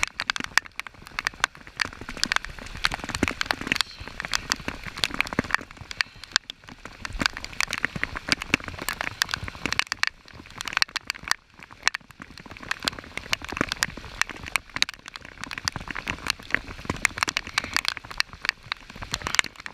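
Rain falling on a river, with many drops landing close by as a dense, irregular run of sharp ticks over a steady hiss.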